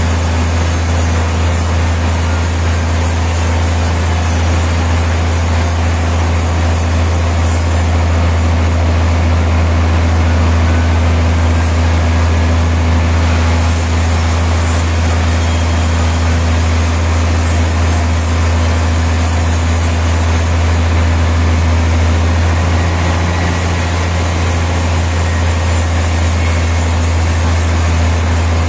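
Sawmill machinery running steadily with a constant low drone and no distinct cuts or impacts.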